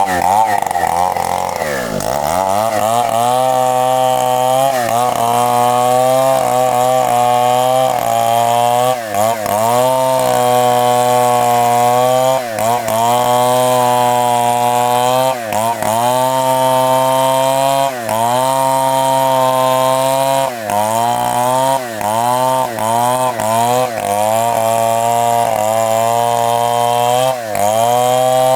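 Two-stroke chainsaw cutting through a very thick tree trunk, its engine held at high speed with brief drops in pitch every second or two as it bogs under the load and picks up again. Near the start the pitch falls sharply as the chain bites in.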